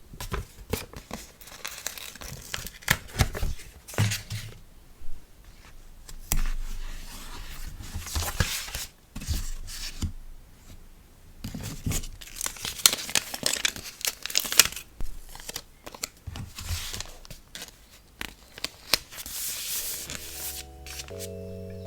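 Packaging materials handled by hand while packing an order: irregular tearing and crinkling with scattered sharp taps and clicks. Soft music comes in near the end.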